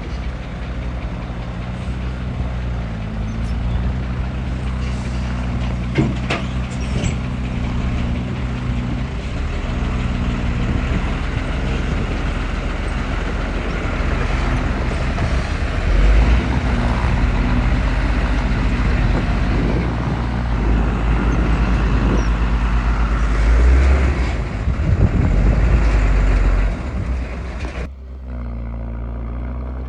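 Heavy diesel engine of earthmoving machinery running under load, with stronger low surges through the second half. There is a sharp click about a fifth of the way in, and the sound drops suddenly near the end.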